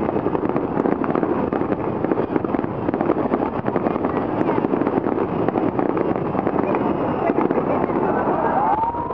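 An unbroken barrage of aerial fireworks shells bursting, many reports overlapping into a dense, continuous crackle and popping.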